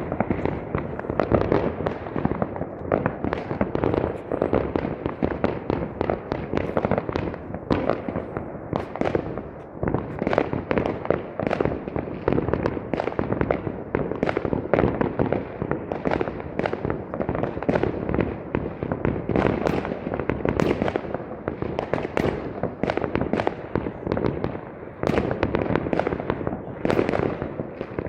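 Fireworks display: a dense, continuous barrage of shell bursts and crackling bangs.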